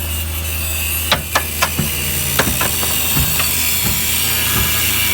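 Irregular sharp metal knocks, about half a dozen in the first few seconds, from sheet-metal repair work on a truck's steel cargo bed, over a steady low hum and a constant hiss.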